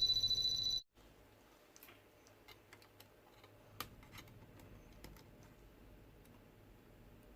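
A steady high-pitched electronic beep that cuts off sharply within the first second, then faint, scattered light clicks and taps.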